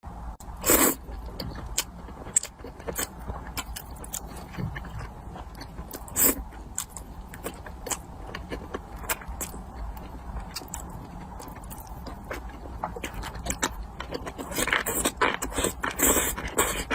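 Close-miked eating: a person chewing and crunching food, a steady run of short, crisp clicks with louder bites about a second in and about six seconds in, and a busier stretch of crunching near the end.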